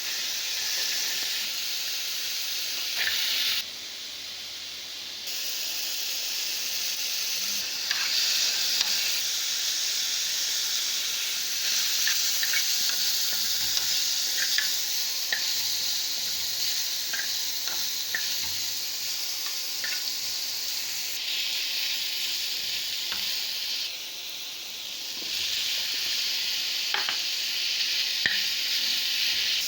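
Boneless chicken frying in hot oil in a pan: a steady sizzle with scattered small pops and clicks. The sizzle drops abruptly twice for a second or two.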